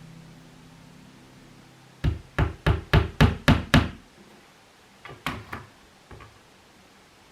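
Hammer tapping a nail into a wall: a quick run of seven blows, then a short pause and a few more lighter taps.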